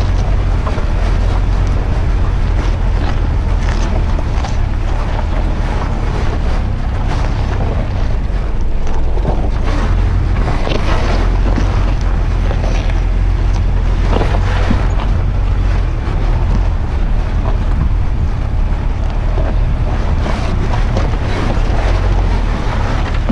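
Strong wind buffeting the microphone, a loud steady rumble with rushing noise.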